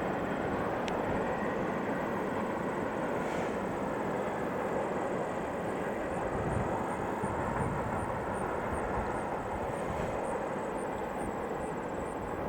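A train rolling past on the rails: a steady rush of wheel and rail noise, with a faint click about a second in.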